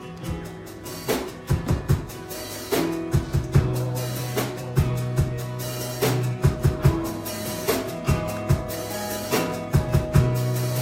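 Live church band playing a song intro: drum kit with kick and snare hits over electric bass and guitar, in a steady beat.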